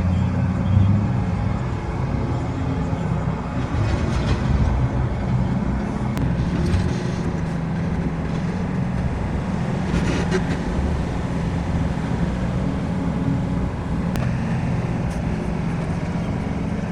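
A heavy engine running steadily with a low rumble, with a few faint clicks or knocks over it.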